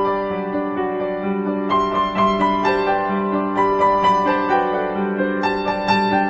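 Background music: gentle piano playing a melody over sustained chords.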